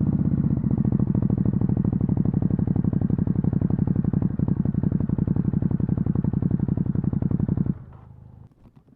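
Stock Ducati Hypermotard 950's L-twin engine idling with an even, lumpy firing pulse, then switched off near the end, the sound stopping abruptly.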